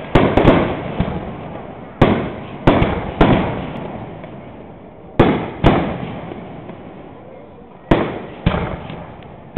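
Aerial firework shells bursting overhead: about nine sharp bangs in small clusters, each followed by a long echo that fades away.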